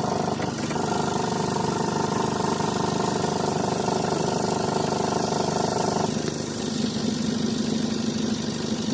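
Chevrolet Colorado engine running with its air-conditioning compressor on, giving a steady mechanical whine over a hiss. About six seconds in the higher whine stops and a lower steady hum carries on. The compressor noise goes with a high-side pressure over 200, which the mechanic puts down to too much refrigerant.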